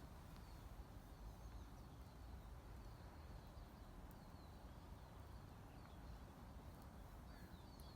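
Near silence: quiet forest ambience with a faint low rumble and scattered faint, high, short chirps from small birds.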